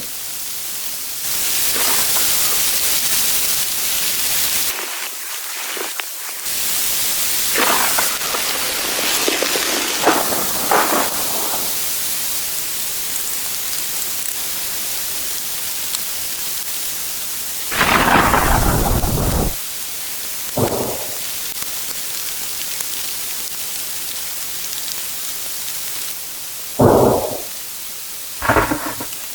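Steady hissing rain with several short rumbles of thunder, two of them near the end.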